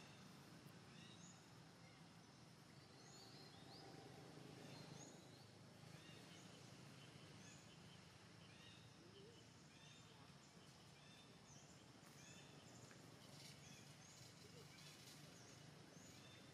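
Faint forest background with many quick, high, rising chirps from small birds calling over and over, over a soft steady hum.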